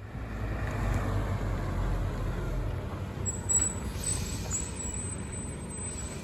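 A truck engine running with a steady low rumble. A thin, high-pitched whine joins in about three seconds in.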